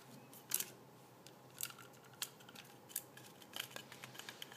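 Scattered light clicks and taps of hand work inside an opened electronic device, with a wire-harness connector being freed and the main circuit board lifted out. The clicks are irregular and small, and the sharpest comes about half a second in.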